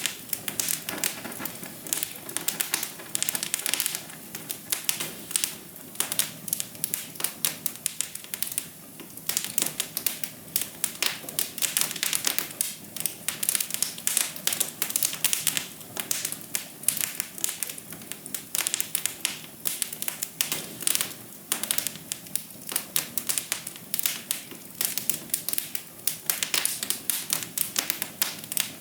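Wood fire in a fireplace crackling: a dense, irregular stream of sharp pops and snaps over a soft, steady background of burning.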